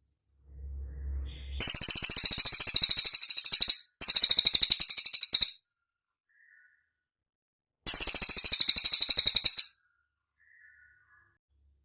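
Cililin songbird singing a rapid, high-pitched chattering trill of fast repeated notes, in three bursts of about two seconds each. A faint low hum comes before the first burst.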